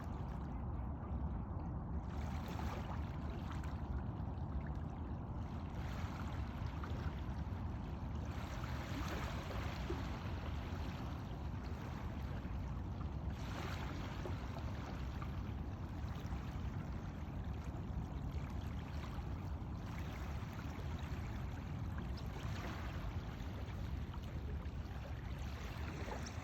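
Shoreline ambience: a steady low rumble with soft washes of water on the shore every few seconds.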